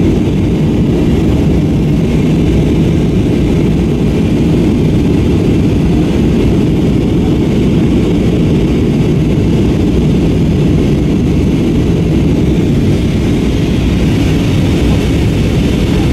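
Steady cabin noise inside an SAS Airbus A321-232 in flight, with its IAE V2500 engines, heard from a rear window seat: a loud, even, deep roar of the engines and the airflow past the fuselage.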